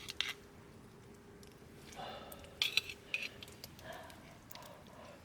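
Eating utensils clinking against a dish or pot as food is picked out: a few sharp clinks, the clearest ones about three seconds in, with a short ring.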